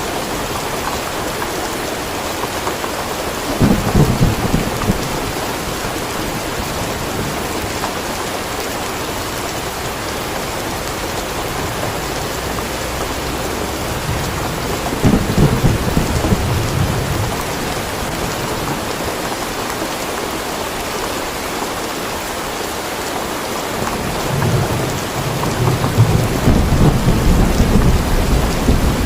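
Steady rain falling, with rolls of thunder: a short rumble about four seconds in, another around the middle, and a longer, louder rumble building near the end.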